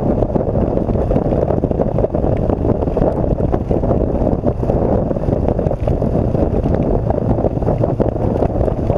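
Steady wind rush buffeting the microphone of a motorcycle riding at speed, with a few scattered sharp ticks.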